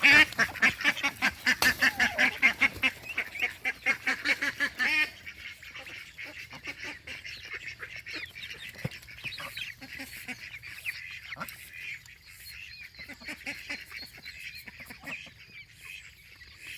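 Young geese and ducklings calling in quick, repeated calls for about five seconds. Then the sound drops suddenly to faint, high peeping from the young birds.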